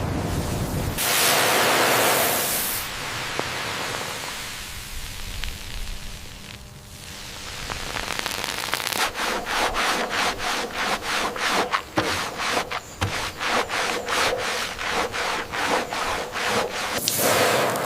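Hand rubbing on a surface: a burst of rubbing about a second in, then a run of regular back-and-forth strokes, about two a second, in the second half.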